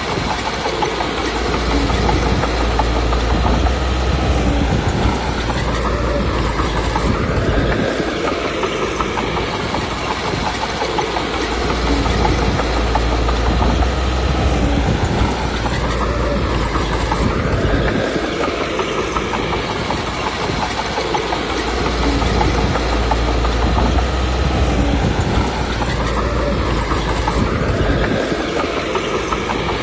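Komatsu D21P crawler bulldozer working: its diesel engine runs under load with steady track clatter, the low rumble swelling and easing in a cycle about every ten seconds as it pushes and backs off.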